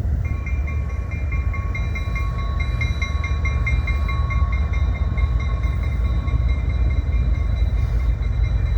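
Canadian National freight train rolling past: a steady heavy low rumble with thin high-pitched ringing tones over it.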